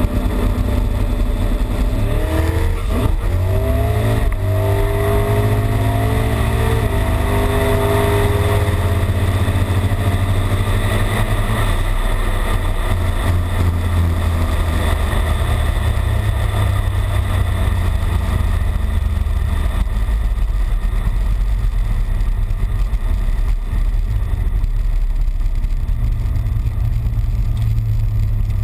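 Turbocharged 408 LSX V8 of a 2002 Chevrolet S-10 heard from inside the cab, running with a steady low rumble. Its revs climb in a few rising steps in the first several seconds, then hold steady.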